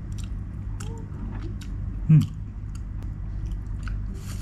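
A person chewing a mouthful of ice cream cone topped with plain instant-noodle crumbs that have gone soft rather than crisp: small scattered mouth clicks and smacks, with one short hummed "mm" about two seconds in.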